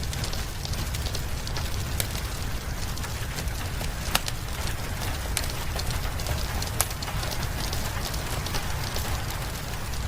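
Wood fire crackling in a fireplace, with a few sharp pops, over a steady hiss of rain and a constant low rumble.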